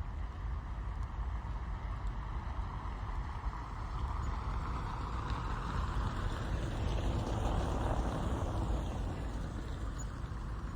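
Steady rain heard from inside a car, with a low rumble. A rushing hiss like a vehicle passing on the wet road swells from about four seconds in and eases off near the end.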